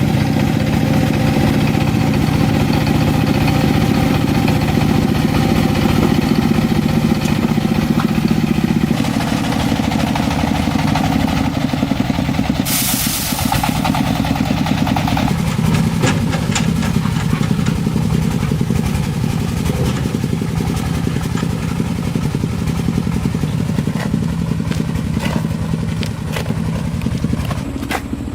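An engine running steadily, its note shifting about nine seconds in and again about fifteen seconds in, with scattered clicks and clatter over it in the second half.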